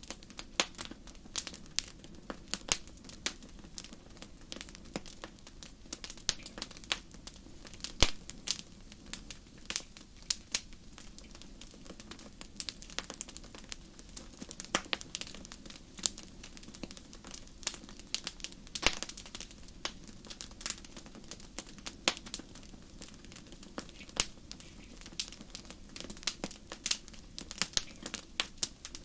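Fireplace fire crackling: irregular sharp snaps and pops over a low, steady rumble of flame, with a louder pop about eight seconds in.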